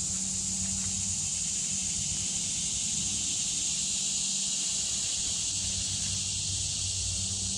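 Steady, unbroken high-pitched drone of insects in a summer woodland.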